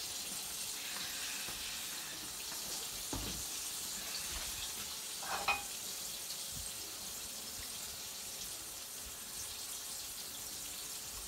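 Turkey chops frying in a skillet, a steady sizzle. A dull knock about three seconds in and a short clink about five and a half seconds in come from a pan being handled on the stove.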